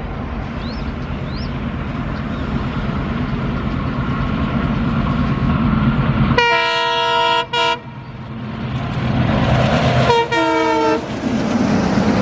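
Indian Railways diesel locomotive approaching, its engine rumble growing steadily louder. Its horn sounds about six seconds in, a long blast followed by a short toot, then once more near the end, the pitch sagging slightly.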